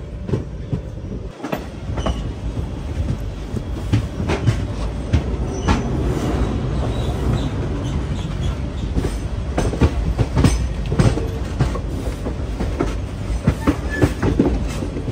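Passenger train coaches running on the track: a steady rumble of wheels with irregular clicks and clatter as they pass over rail joints and points, heard from an open coach doorway.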